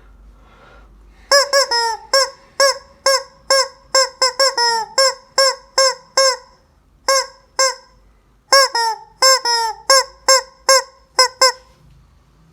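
Rubber chicken squeeze toy squawking again and again, each squeeze a short honk whose pitch rises and falls. The squawks come in two quick runs, about two a second, starting about a second in, with a pause of about two seconds in the middle.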